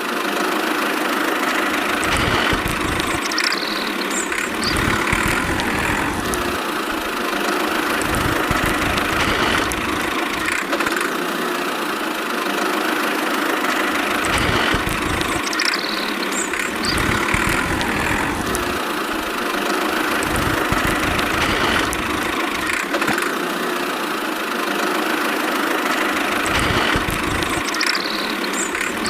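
Engine running at idle, steady with low rumbling pulses every few seconds; the same stretch of sound repeats about every twelve seconds, as a looped engine recording does.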